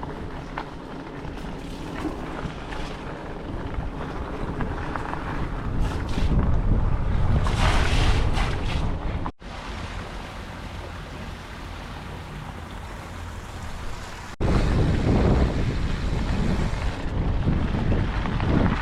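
Wind buffeting the microphone as a bicycle rides along, a steady low rumble and hiss that grows louder for a few seconds midway and again after a sudden change about two-thirds of the way in.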